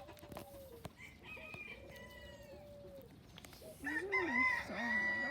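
Rooster crowing: a drawn-out call about a second in, then a louder one near the end.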